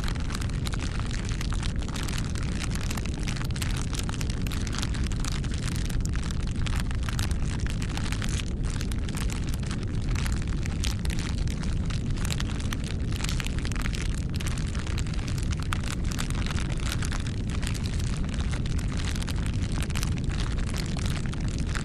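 Campfire burning: wood crackling and popping in quick irregular snaps over a steady low rumble of the flames.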